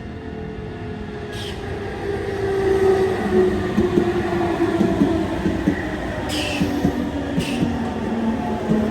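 Nankai electric train running past, its motor whine and wheel-on-rail rumble growing louder from about two seconds in, with a few sharp clicks from the wheels and track.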